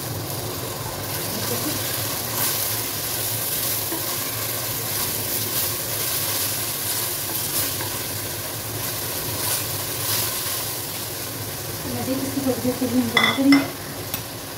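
Onions, garlic and freshly added tomato paste sizzling in hot oil in a clay handi, stirred and scraped with a wooden spatula. The sizzle is steady and grows briefly louder and uneven near the end.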